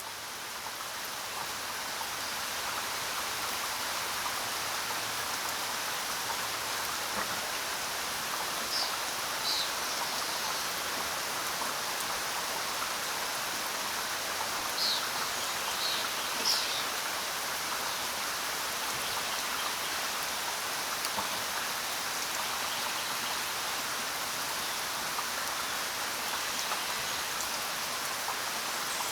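Steady rain falling, an even hiss that swells up over the first couple of seconds and then holds level. A few short high chirps sound above it around the middle.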